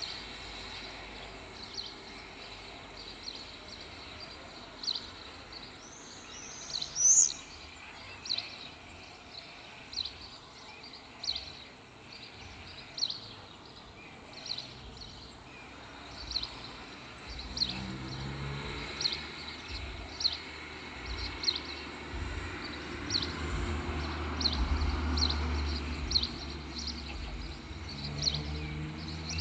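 A small bird repeatedly gives a short, high, falling chirp, about once a second, with one louder call about 7 seconds in. From just past the middle, a low engine rumble rises underneath, like a motor vehicle running nearby.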